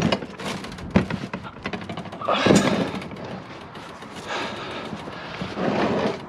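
Knocks and thuds of scrap being handled and shifted in a dumpster, with a louder clatter about halfway through and rustling in between.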